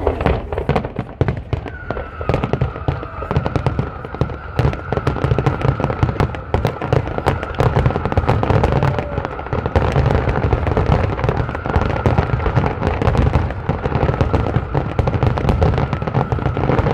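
Fireworks display: a dense, rapid barrage of shell bursts, bangs and crackles overlapping with no let-up. A steady high whistle runs under the barrage from about two seconds in.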